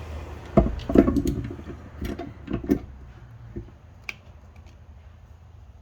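Steel transmission parts of a Honda Civic manual gearbox clinking and knocking together as a shift fork and gear are handled and fitted onto the shaft: a quick run of sharp clinks in the first three seconds, then a few scattered taps.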